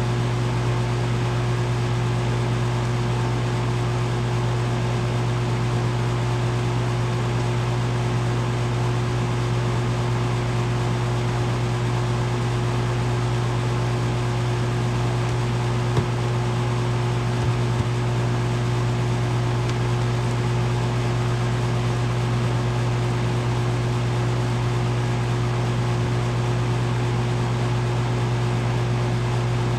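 A 2012 Bryant Legacy Line 2.5-ton central air conditioner condensing unit running steadily, its compressor and condenser fan giving a constant low hum.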